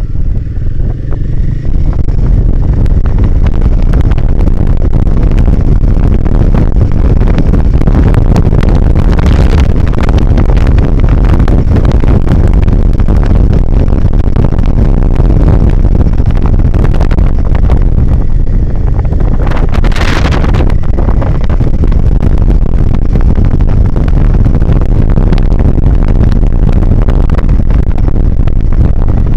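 Royal Enfield Himalayan 450 motorcycle being ridden: its single-cylinder engine running under loud, steady low rumble and buffeting on the camera mic. There is a brief hissing rush about twenty seconds in.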